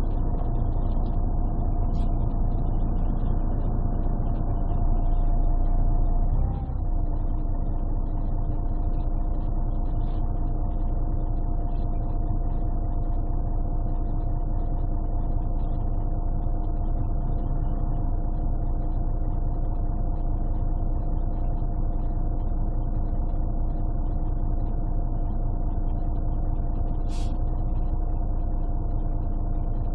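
Scania DSC 11 six-cylinder diesel and Voith automatic gearbox of a 1998 Scania CN113CLL city bus, heard from inside while driving, as a steady rumble with a steady whine. About six seconds in, the sound briefly dips and the whine shifts up a little, then it runs on evenly. The sound is muffled and bass-heavy because the phone microphone was partly covered.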